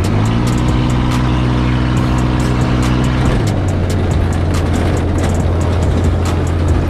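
Off-road buggy engine running under load. It revs up just after the start, holds, and drops back to a lower steady pitch about three seconds in, with frequent short rattles and clicks throughout.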